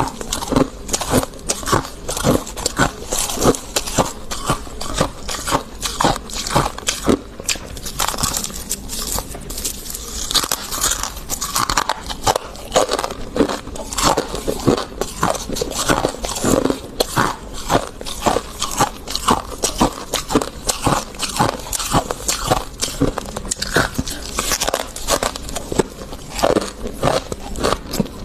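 Freezer frost being bitten and chewed close to the microphone: a steady run of crisp, crispy crunches, several a second.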